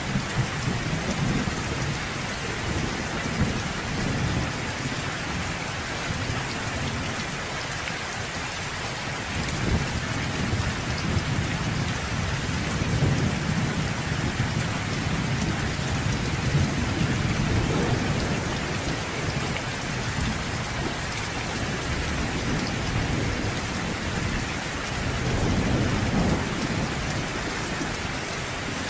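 Steady rain, with low rolling thunder that swells through the middle and again near the end.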